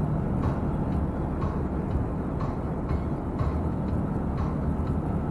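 Steady low rumble of a lorry's engine and road noise inside the cab, with a faint tick about once a second.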